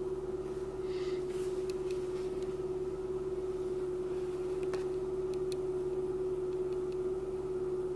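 Car engine idling steadily at a raised cold-start idle just above 1000 rpm, heard from inside the cabin as a constant hum.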